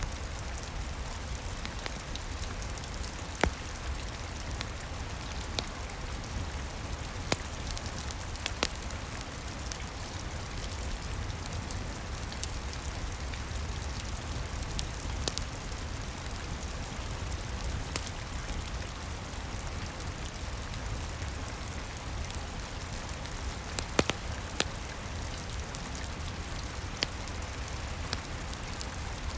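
Steady rain on a roof, with the sharp pops and crackles of a wood fire in a fireplace every few seconds.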